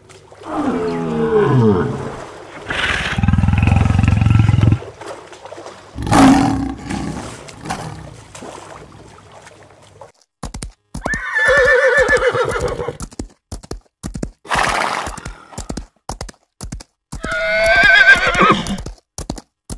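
A lion calls in the first half: a falling call, then a longer low one and a shorter one. About halfway through, a horse's hooves start clattering in quick strikes, and the horse neighs twice over them, the second time near the end.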